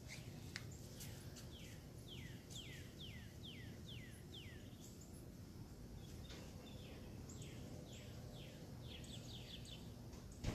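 A songbird singing runs of clear whistled notes that each slide downward, about two a second, in two phrases. A faint steady low rumble sits underneath.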